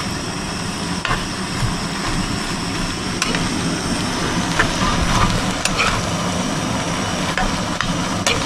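Chicken and vegetable stir fry sizzling in a full pan as it is stirred, with a utensil clicking against the pan every second or two, over a steady low hum.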